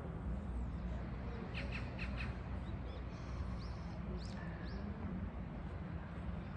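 Birds chirping over a steady low city hum: a few quick chirps about a second and a half in, then several short rising chirps around four seconds in.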